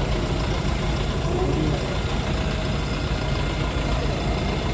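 Bulldozer engine running steadily, its sound mostly low-pitched and even.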